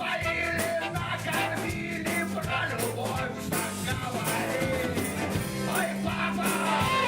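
Live band music: an upbeat rock number with a steady drum beat under bass and melody.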